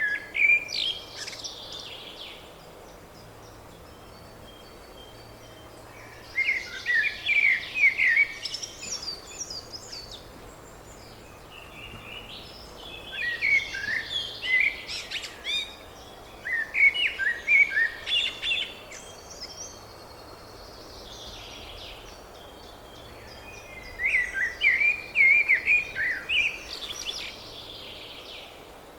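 Small songbird singing: bouts of quick, high chirping notes lasting two or three seconds each, repeated about five times with short pauses between them.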